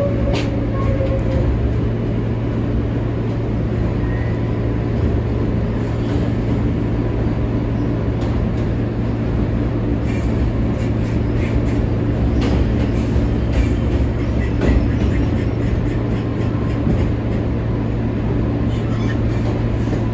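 R143 subway train riding the rails, heard from inside the car: a steady low hum and rumble with scattered clicks and clacks of wheels over rail joints, busiest in the middle.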